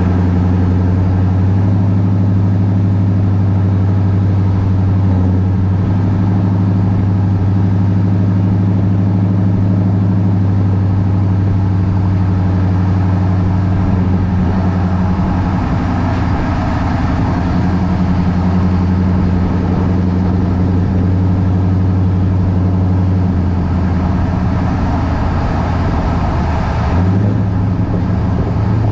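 2018 Chevrolet Silverado with an equal-length exhaust, engine running steadily with a low, even exhaust drone; the pitch steps up slightly near the end.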